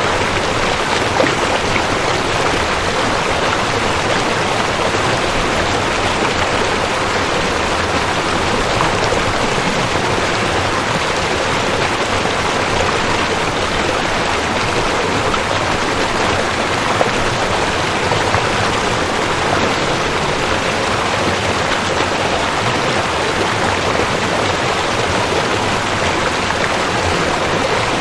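Rushing creek: fast water flowing and splashing over rocks in a steady, dense rush.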